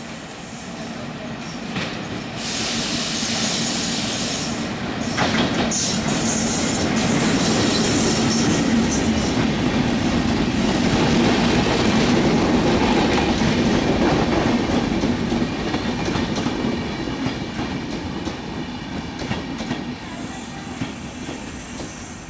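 Express passenger train running past on the rails, wheels clattering and squealing. It grows louder, holds for several seconds, then fades.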